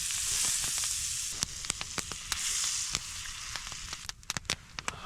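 Food frying on a hot skillet: a steady sizzle with many scattered sharp pops, dying down after about four seconds.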